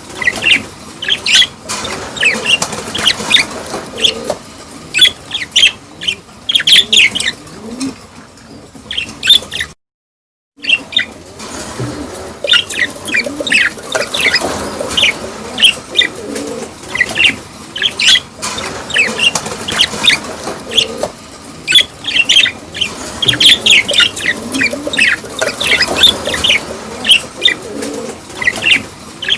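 A flock of budgerigars chirping and chattering, a dense run of short, sharp calls. The sound cuts out completely for under a second about ten seconds in, then the chatter resumes.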